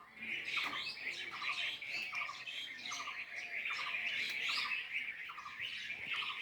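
A chorus of many small birds chirping and twittering at once, with one lower, short call repeating evenly about every three-quarters of a second underneath.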